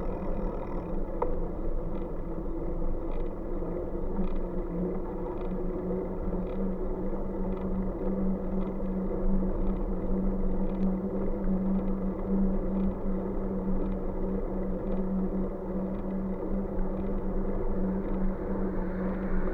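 Riding noise from a moving bike: a steady hum with rushing road and wind noise, and a faint tick repeating about once a second.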